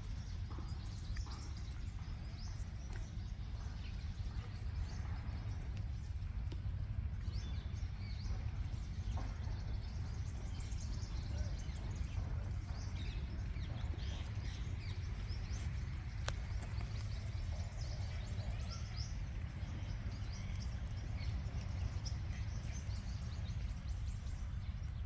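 Outdoor ambience: a steady low rumble of wind on the microphone, with scattered short bird chirps.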